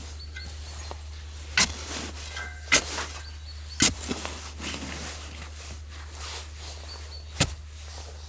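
Four sharp knocks: three about a second apart, then a longer gap before the fourth near the end, over a steady low hum.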